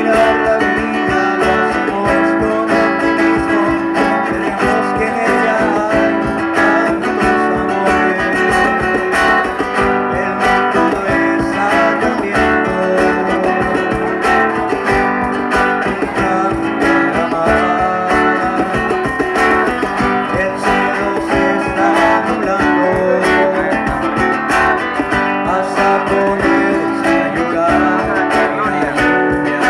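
Guitar music: plucked and strummed guitar playing continuously.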